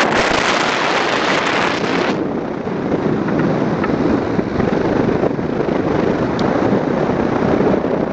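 Wind buffeting the microphone, heaviest for about the first two seconds, then settling into a steady low rumble.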